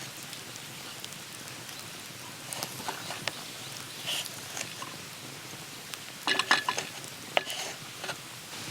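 Monjayaki sizzling on a hot iron griddle: a steady hiss with scattered clicks and crackles, and a quick run of sharper clicks about six seconds in.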